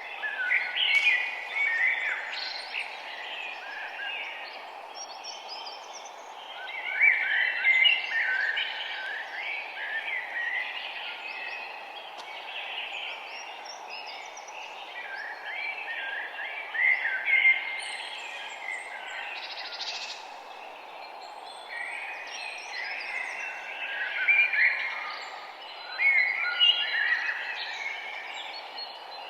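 Several songbirds chirping and singing in overlapping bursts, with the busiest flurries about a second in, around a quarter of the way through, mid-way and near the end, over a steady low background hiss.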